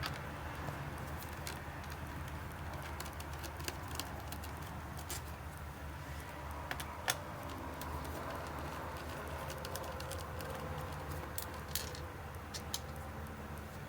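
Scattered small clicks and ticks of a precision Phillips screwdriver working the screws out of an Acer R11 Chromebook's back cover, over a steady low hum.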